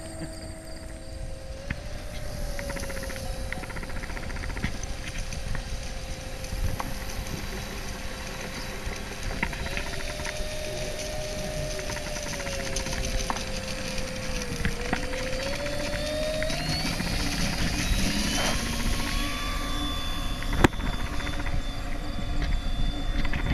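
Electric motor and propeller of an FMS 1400mm P-40 Warhawk RC plane whining steadily at low throttle, then rising in pitch about fifteen seconds in as the throttle is opened, and holding at the higher pitch.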